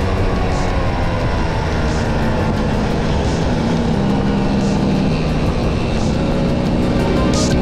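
Vespa V50 scooter's two-stroke engine running steadily under way at riding speed, its note rising and falling slightly, over a dense rush of road and wind noise.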